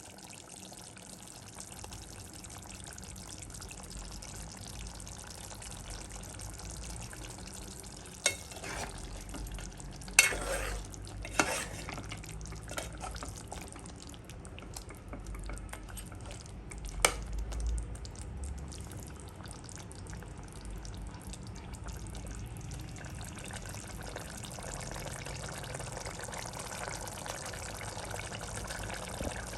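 Food cooking in a pot and being stirred, a steady sizzling-bubbling noise, with a few sharp clinks of a utensil against the pot.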